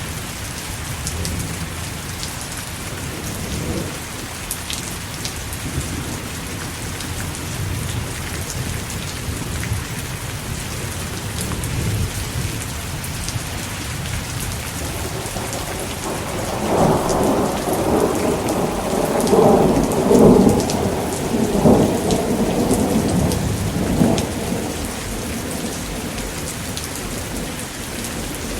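Steady heavy rain on surfaces with a rolling thunder rumble that builds a little past halfway, swells several times, and dies back before the end.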